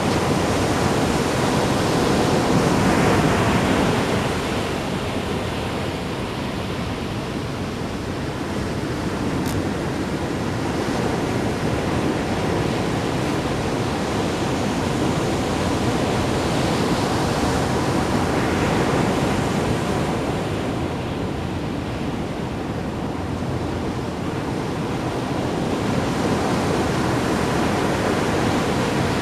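Ocean waves splashing and washing in a continuous rush that swells and eases, loudest about three seconds in, with wind buffeting the microphone.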